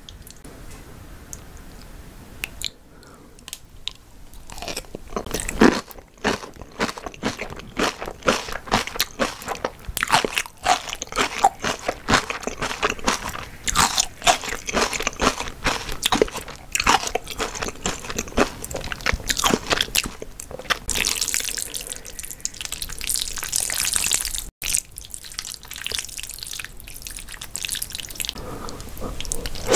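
Close-miked eating sounds of a person biting and chewing spicy napa cabbage kimchi: irregular wet crunches and crackles, starting a few seconds in and going on densely.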